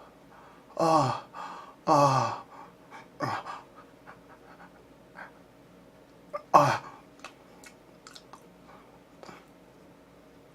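A man's voice letting out a series of short groaning sighs, each falling in pitch: about four of them, three close together in the first few seconds and one more louder one later, with small breaths and mouth clicks between. They are sounds of frustration at a long wait.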